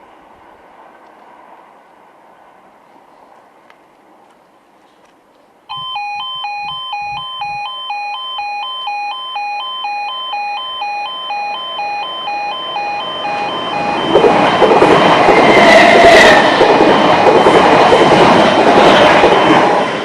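A railway level crossing's warning alarm starts suddenly, an electronic two-tone yodel alternating steadily between a lower and a higher pitch. Later a train runs past the crossing, its rush of wheels on rail growing loud and drowning out the alarm as it goes by.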